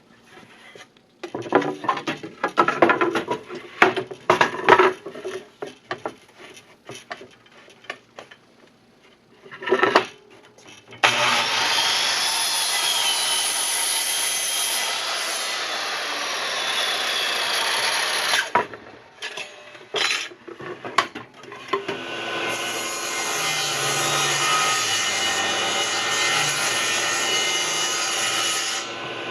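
A woodworking power tool running through scrap wood in two long steady runs. Before and between the runs there are irregular knocks and clatter as the wood is handled.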